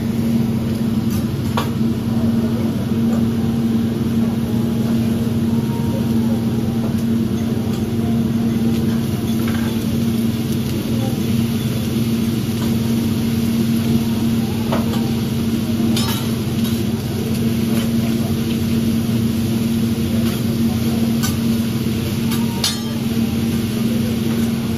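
Food sizzling as it fries, with scattered sharp clicks of cooking utensils against metal, over a steady low hum.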